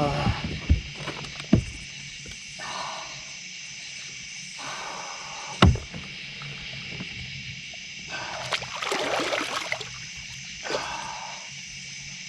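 Water splashing and sharp knocks against a kayak's hull while a large catfish is fought on the line. The splashes come in short patches, with three distinct knocks, over a steady chorus of night insects.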